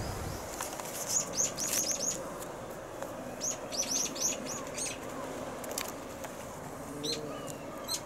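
Small bird chirping in quick runs of short, high, falling notes, one run about a second in and another around three and a half seconds, with a few more chirps near the end, over a steady background hiss.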